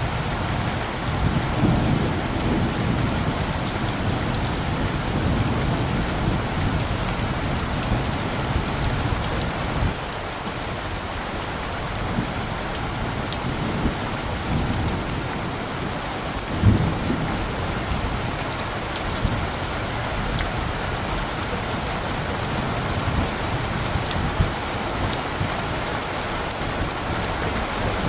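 Steady rain falling, with low rumbles of light thunder through the first third and a brief rumble a little past halfway.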